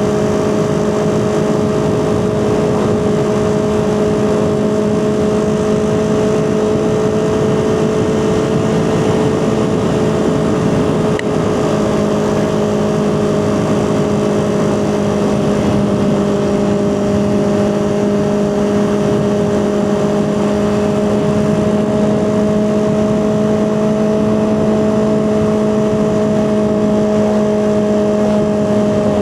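Honda CB400/4 Super Sport's air-cooled inline-four engine running at steady, nearly unchanging revs, a constant drone over a steady hiss of wind and road noise.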